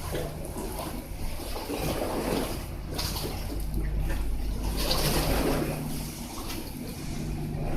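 Sightseeing boat's engine running with a steady low hum under the rush and splash of water, the water noise swelling twice.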